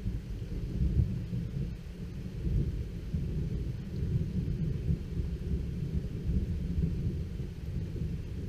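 Thunder rumbling low and continuously from a thunderstorm, swelling and fading without a single sharp clap.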